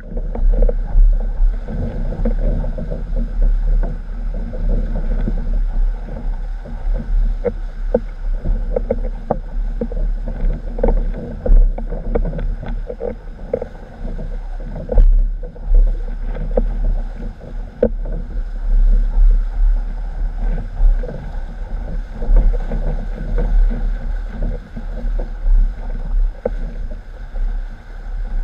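Strong wind buffeting the microphone over water rushing and slapping against a windsurf board under sail, with frequent short knocks from the chop.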